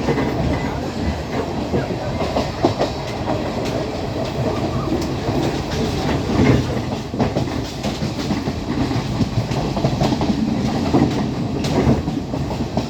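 Class S12 diesel multiple unit running along the line: a steady rumble with wheels clicking irregularly over the rail joints.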